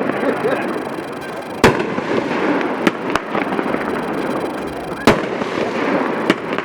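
A 23-shot consumer firework cake, Superimposing, firing. Five sharp reports come at uneven gaps of roughly one to two seconds over a steady noisy background.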